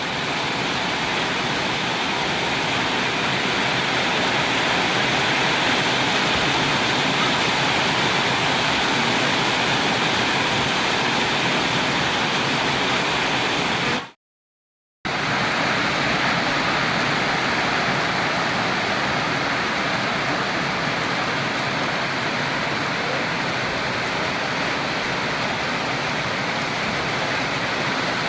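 Rain falling, a steady, dense hiss, broken by about a second of silence halfway through.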